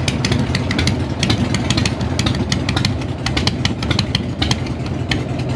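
Five motorcycles idling together, among them two Harley-Davidson V-twins, a Suzuki Katana, a Honda Monkey and a Grom clone: a steady, loud mixed exhaust rumble, like a stampede of wild horses, with irregular sharp ticks and pops over it.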